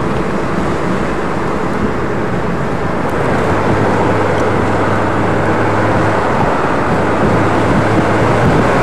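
Steady road and engine noise inside a moving car, with a low hum underneath.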